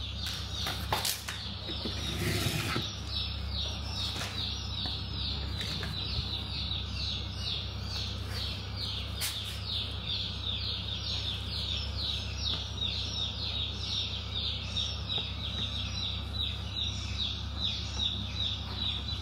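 A bird chirping over and over, about three high, falling chirps a second, over a low steady hum. A couple of brief knocks come near the start.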